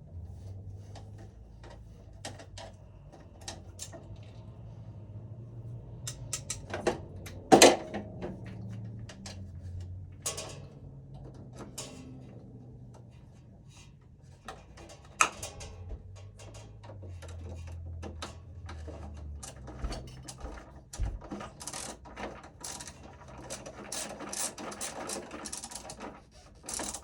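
Irregular clicks, scrapes and taps of a screwdriver and stiff wires being worked at breaker terminals in an electrical panel, with a sharp knock about eight seconds in and lighter ones later.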